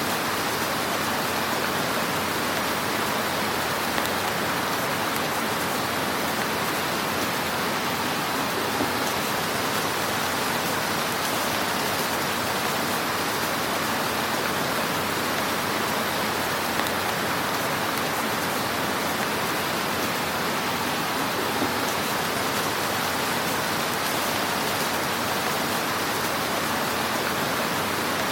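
Wood fire in a fireplace crackling steadily: a dense, even hiss of crackle with a few slightly louder pops scattered through it.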